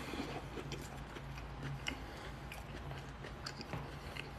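A man chewing a mouthful of fried chicken sandwich: faint, scattered soft clicks of chewing over a steady low hum.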